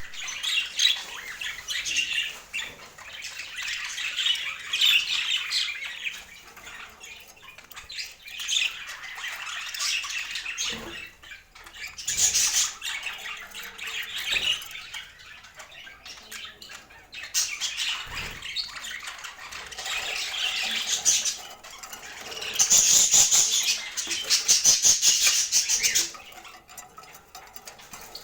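Budgerigars chattering and chirping in rapid bursts, with a louder run of chatter near the end.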